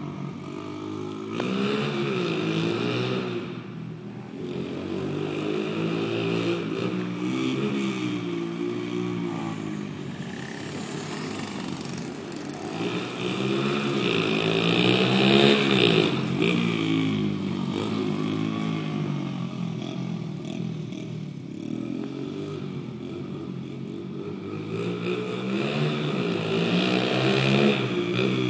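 Pit bike engine revving as it is ridden, its pitch rising and falling again and again; it is loudest about halfway through.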